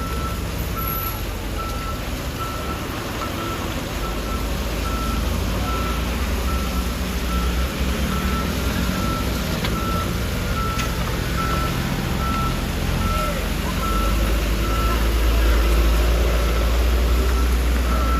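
Truck reversing alarm beeping steadily, about two beeps a second, over a truck engine's low rumble that grows louder near the end.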